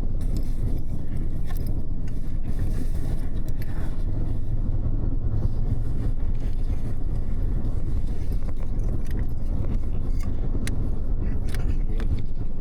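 Double-decker bus heard from inside the upper deck on the move: a steady low rumble of engine and road noise, with scattered light clicks and rattles from the cabin.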